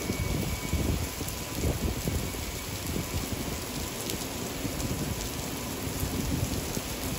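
Torrential downpour pelting a flooded concrete parking deck: a dense, steady hiss of heavy rain splashing into standing water, with uneven low thuds underneath.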